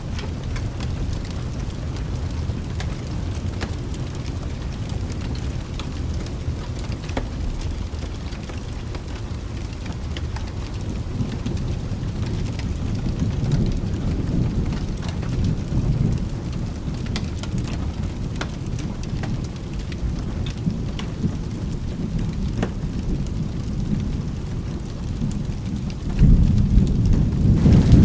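Steady rain with rolling thunder, and scattered sharp crackles as from a fireplace. A louder thunder rumble swells up near the end.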